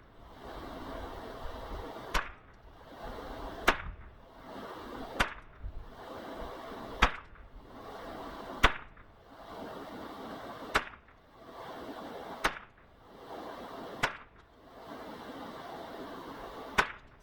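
Unsuppressed .22 LR rifle firing Winchester Super X rounds from a bare barrel: nine sharp shots, one every one and a half to two seconds.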